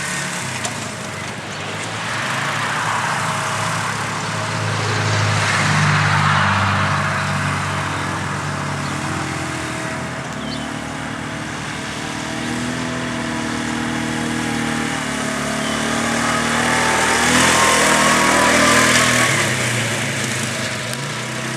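Four-wheeler towing an old Toro pull-behind lawn mower through wet grass, engines running steadily. The sound swells twice as the rig passes nearer, and the engine pitch shifts partway through.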